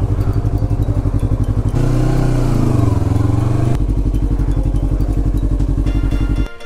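Yamaha MT-03's 321 cc parallel-twin motorcycle engine running, its note dipping and rising again midway, then cutting off suddenly near the end.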